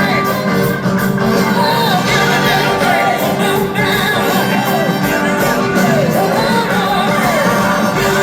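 Live rock band playing loud amplified music, with a lead line sliding up and down in pitch over the steady band.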